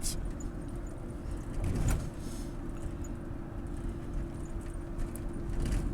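Steady road and engine rumble of a moving car heard from inside the cabin, with a constant hum and a brief knock about two seconds in.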